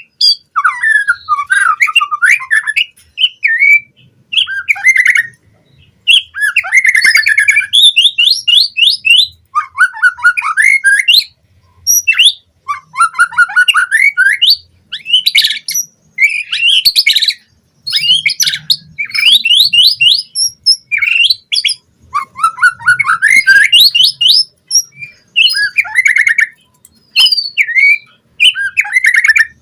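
White-rumped shama singing a loud, varied song: phrase after phrase of fast sweeping notes, rapid trills and short whistles, separated by brief pauses.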